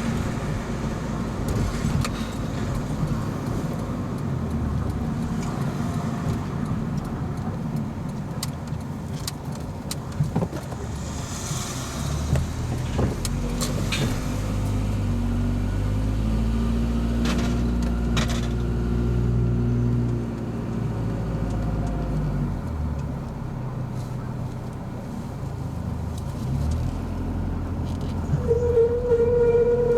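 Honda Odyssey RA2 running at low speed with a steady rumble and scattered clicks, and near the end a steady high squeal. This is the rubbing squeal, 'kii-kii', that the car makes when the steering is turned to full lock. The owner suspects the coilovers or a drive shaft; the Honda dealer suspected the power steering pump.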